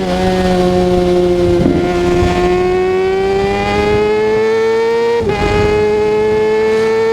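Kawasaki ZX-6R 636 inline-four motorcycle engine under way, revs climbing slowly under steady throttle. About five seconds in the pitch drops sharply at an upshift, then climbs again, with another gear change at the very end.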